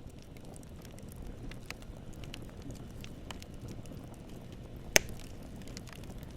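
Campfire burning: a low, steady rumble of flame with scattered small crackles of burning wood, and one loud sharp pop about five seconds in.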